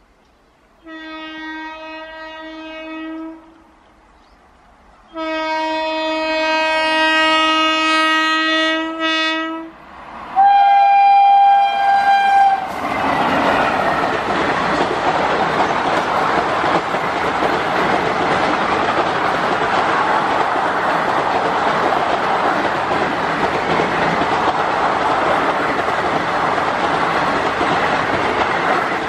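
WAP-4 electric locomotive horn: a short blast about a second in, then a longer blast at the same low pitch, then a louder, higher-pitched blast. From about 13 s the locomotive and passenger coaches pass close by at speed with a steady rumble and clatter of wheels on rails.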